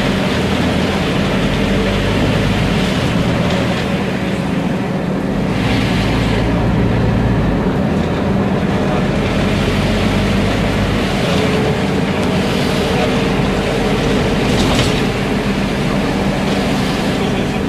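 Scania CN270UB city bus under way: the engine runs steadily under road and tyre noise, its low note shifting a few times as the bus changes speed.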